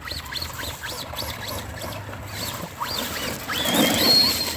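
Traxxas Rustler VXL RC truck's brushless motor whining in quick throttle blips, each a short rise and fall in pitch. Near the end it winds up into a longer, high, steady whine over a spatter of mud and wheelspin.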